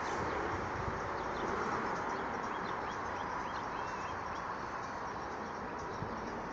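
Small birds chirping in short high notes, clustered about three to four seconds in, over a steady rushing noise.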